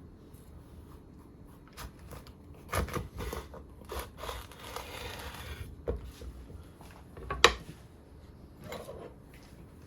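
Kitchen handling sounds: scattered clicks and knocks, with a rustling stretch in the middle and one sharp knock about seven and a half seconds in.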